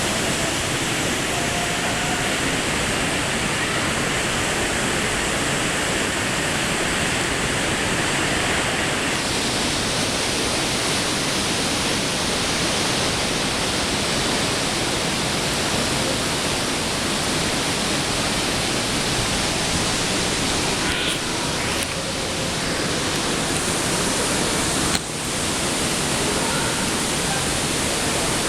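Varone waterfall pouring down in a steady, unbroken rush of falling water. Its tone shifts slightly about nine seconds in, and there is one short click about 25 seconds in.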